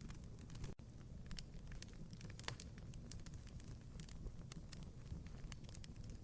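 Wood fire crackling, with irregular snaps and pops over a low steady rumble of burning; one louder pop about two and a half seconds in.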